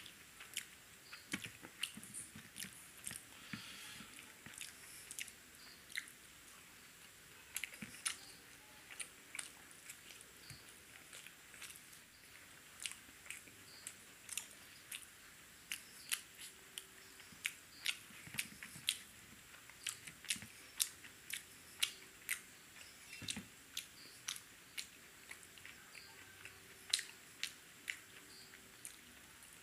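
A man chewing coriander-leaf paratha, his mouth making short, sharp wet clicks that come irregularly, about one or two a second.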